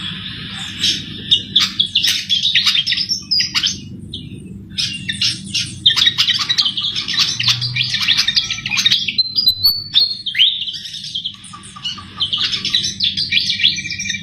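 Javan flycatcher (sikatan) singing vigorously: fast, high-pitched twittering phrases in three long bursts separated by short pauses.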